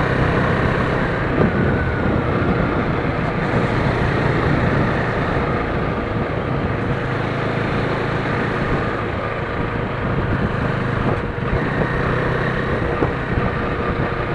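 A 2017 KTM Duke 390's single-cylinder engine and exhaust running steadily with the bike under way.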